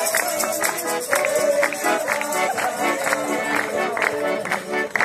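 Gaúcho accordion music with sustained chords over a steady percussive beat.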